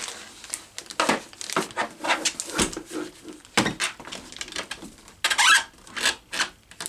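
A desoldering station and its hose being handled and set in place on a workbench: an irregular run of knocks, clicks and rustling scrapes, with a heavier thump about three and a half seconds in.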